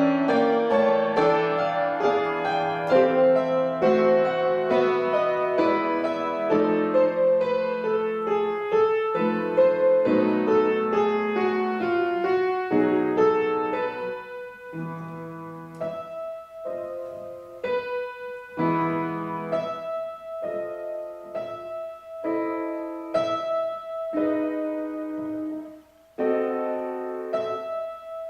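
Solo piano playing a classical piece. For about half the time it runs through a flowing stream of quick notes. Then it turns softer, with separate notes and chords, and breaks off briefly near the end before going on.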